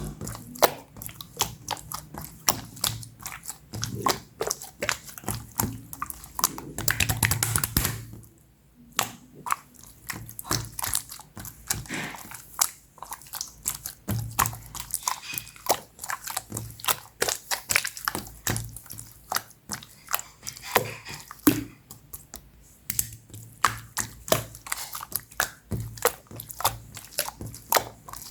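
Clear slime being squeezed and pressed by hand, giving a run of quick, irregular wet clicks and squishes with a brief pause about eight seconds in.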